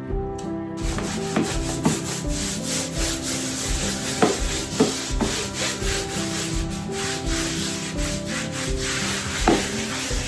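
Quick repeated rubbing strokes of a cleaning cloth scrubbing a hard surface, a scratchy swishing sound, over background music with a steady beat.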